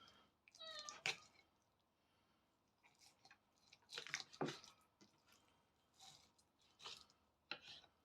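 Faint, scattered wet squishes and small clicks of a knife slicing raw chicken breast off the carcass, with near silence between them.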